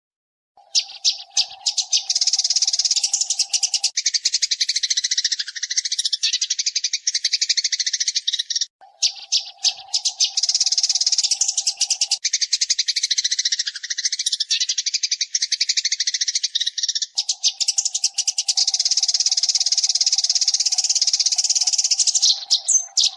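Eurasian tree sparrow chirping in a fast, dense chatter, sped up as a tutor recording for songbirds. It comes in three long stretches broken by brief gaps, with a steady low hum under the start of each.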